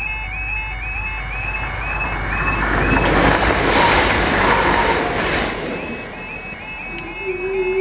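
Class 175 diesel multiple unit passing over a level crossing, a rush of wheel and engine noise that builds, peaks for about three seconds and fades. The crossing's warbling two-tone warning alarm sounds before and after the train. Near the end a click is followed by a steady hum.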